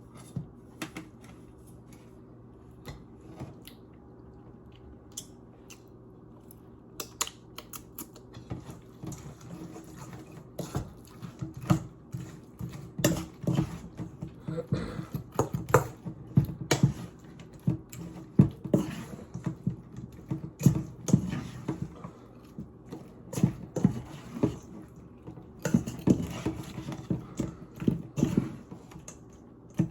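A utensil clicks and knocks irregularly against a bowl as fried chicken pieces are tossed in sauce. The clicks are sparse at first and come thicker after about seven seconds, over a steady low hum.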